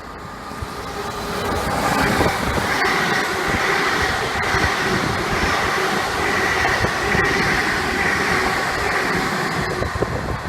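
A train running close by: the noise builds over the first two seconds, then holds steady with a whine of several tones over rumbling wheel noise and a few sharp clicks, and eases slightly near the end.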